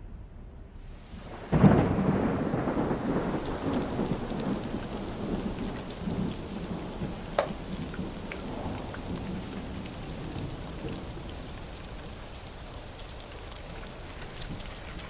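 Thunderstorm: steady heavy rain, with a sudden clap of thunder about a second and a half in that rumbles away over several seconds, and a sharper crack a few seconds later.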